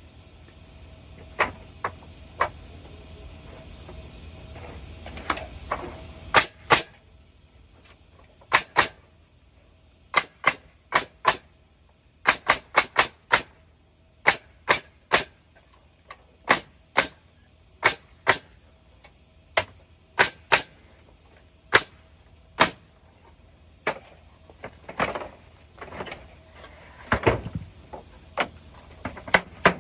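Hammer driving nails into pallet boards: sharp single blows in uneven runs, often two in quick succession, with pauses between runs.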